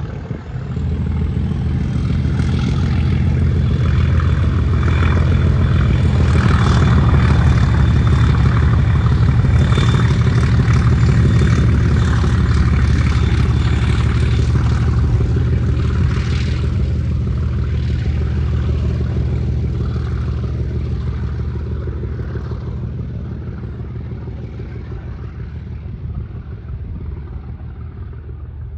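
Class 37 diesel locomotive passing under power, its deep engine drone building to a loud peak and then slowly fading as it draws away, towing a dead Class 769 multiple unit behind.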